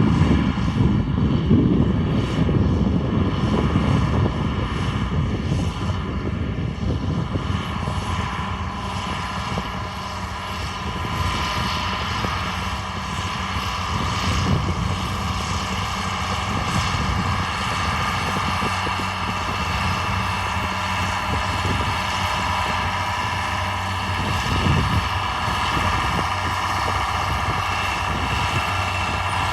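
John Deere 4955 tractor's diesel engine running steadily, an even drone with a constant hum and whine.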